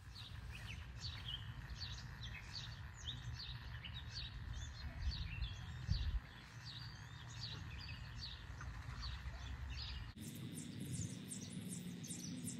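Small birds chirping and singing in short repeated notes over a low outdoor rumble, with one dull thump about six seconds in. About ten seconds in, the background changes abruptly to a steady hum with quicker, higher chirps.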